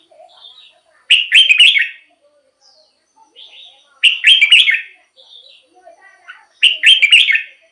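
Red-whiskered bulbul singing: three loud phrases, each a quick run of notes lasting about a second, repeated every two to three seconds, with softer chirps in between.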